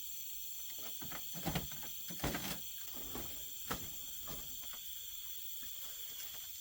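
Steady high chirring of night insects, with a few short knocks and clatters about 1.5 and 2.5 seconds in and again near 4 seconds.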